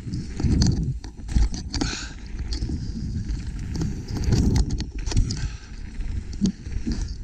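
Mountain bike rolling over rough trail: irregular clicks, knocks and rattles over a low rumble of wind on the microphone.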